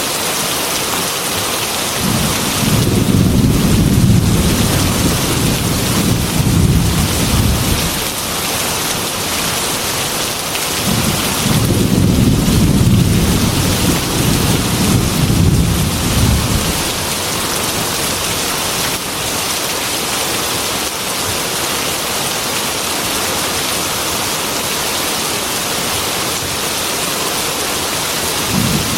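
Heavy rain falling steadily on a glass window. Two long rumbles of thunder come through it, one starting about two seconds in and one about eleven seconds in, each lasting five or six seconds.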